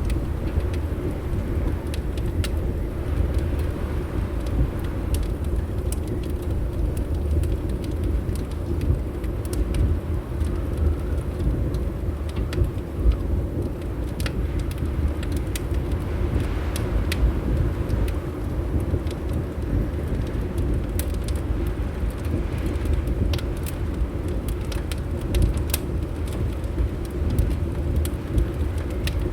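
Wood fire in a fireplace crackling, with scattered sharp pops, over a steady low rumble of wind.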